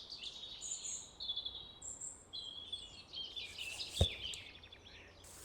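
Small birds chirping and trilling in quick, high calls, with a single sharp knock about four seconds in.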